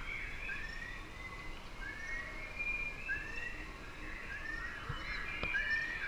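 Birds chirping: a string of short, rising chirps repeated every second or so, over a faint low wash of moving water.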